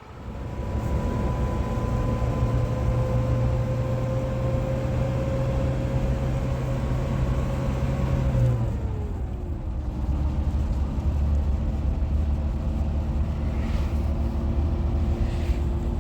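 Car engine running while driving, a steady hum that drops in pitch about halfway through, as when the engine slows or shifts gear.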